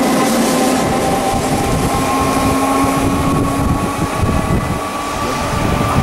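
SNCF electric locomotive-hauled passenger train running on the rails: a steady rumble of wheels on track, with a thin whine that rises slightly in pitch.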